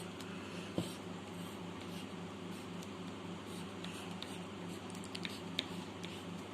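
Graphite pencil scratching and shading on drawing paper over a steady low hum, with a light tap just under a second in and a few short ticks about five seconds in.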